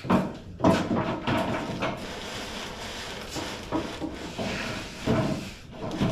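A series of irregular metal clunks and scrapes, about seven in a few seconds, some with a brief ring, as heavy car-lift parts are handled and moved.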